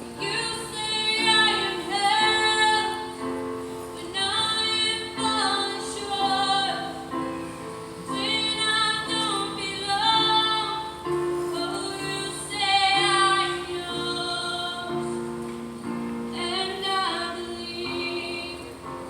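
A young woman singing a slow worship song in long phrases with vibrato, over held accompaniment notes.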